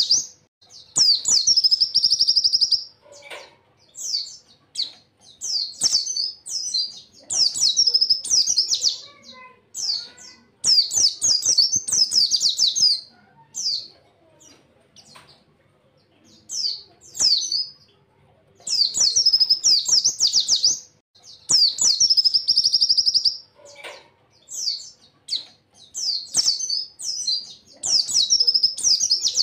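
Pleci (white-eye) singing: fast, high, twittering warble phrases of a second or two, repeated with short gaps and a longer pause about halfway through.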